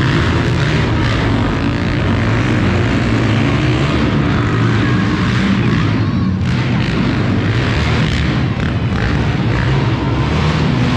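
Monster truck engine running loudly and steadily: a low drone under a wide rushing noise.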